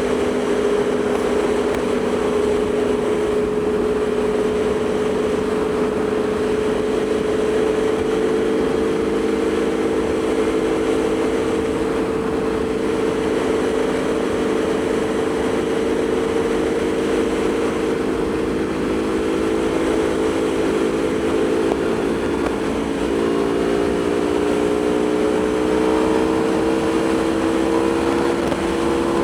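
Aprilia Tuono V4 motorcycle's V4 engine running at a steady cruise, over a constant rush of noise. Its pitch sags slowly, then shifts about 23 seconds in and climbs gently near the end.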